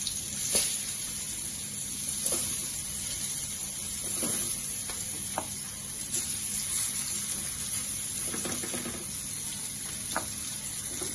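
Spiced ash gourd slices frying in a little oil in a pan, with a steady sizzle and a few small clicks and knocks as pieces are laid in.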